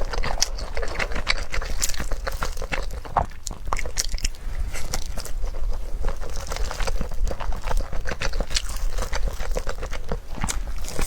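Close-miked chewing and biting of seasoned beef tendon: dense, irregular wet clicks and smacks of the mouth, over a steady low hum.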